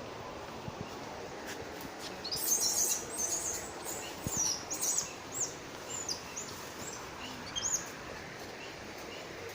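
Birds chirping in a quick run of short, high, sweeping calls, starting a little over two seconds in and stopping near the eighth second, over a steady background hiss.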